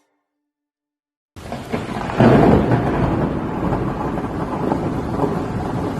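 Silence, then about a second and a half in a loud, steady rushing noise with a deep rumble starts abruptly and swells a little near the two-second mark.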